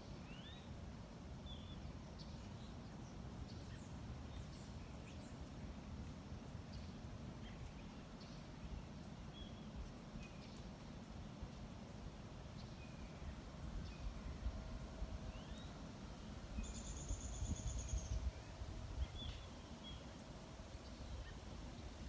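Scattered short bird chirps over a steady low background rumble, with a brief high buzzing trill about three quarters of the way through.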